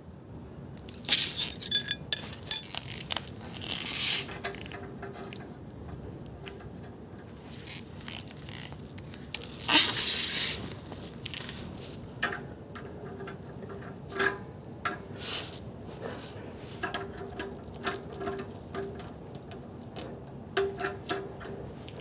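Irregular metallic clinks, rattles and scrapes of hand tools working on parts in a car's engine bay, with a cluster of sharp rattles about a second in and a longer scraping burst about ten seconds in.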